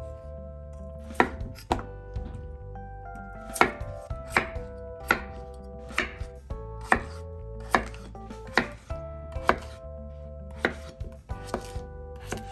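Kitchen knife chopping vegetables on a cutting board: single sharp cuts roughly once a second, some in quick pairs.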